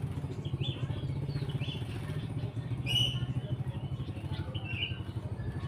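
Short, sharp chirps from a cucak jenggot (grey-cheeked bulbul), about one a second, over the steady low, fast-pulsing rumble of a small engine running, which is the louder sound.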